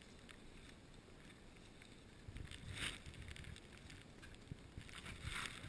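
Faint outdoor background noise with a few light clicks, and two short bursts of hiss and low rumble, about three seconds in and again near the end.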